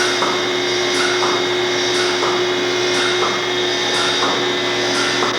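Dairy milking machine running: a steady vacuum-pump hum with the pulsators' rhythmic hiss-and-click repeating about once a second.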